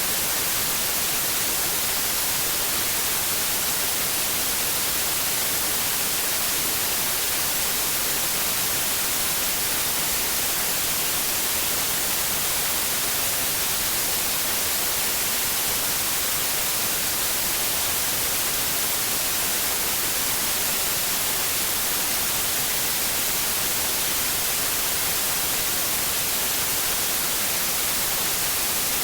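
Continuous white noise: a steady, even hiss, brightest in the high frequencies, with no change throughout.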